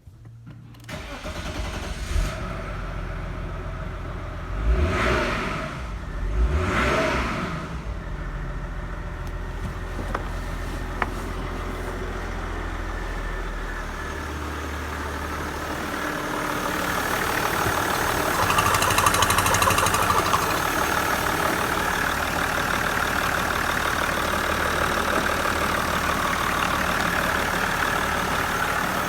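Opel Omega Y25DT inline-six turbodiesel starting up and running, being checked for sale. It is blipped twice, briefly, a few seconds in, then settles to a steady run, and runs louder at raised revs from about halfway through.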